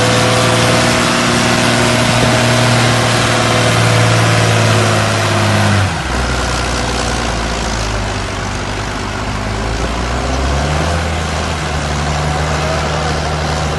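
Ford TW-15 tractor's turbocharged six-cylinder diesel running hard at a steady pitch while tractor pulling. About six seconds in its engine speed drops suddenly to a lower note, then rises a little again near eleven seconds.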